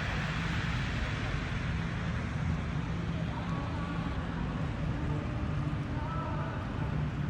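Fire engine's engine idling steadily, a constant low hum, with faint voices in the background.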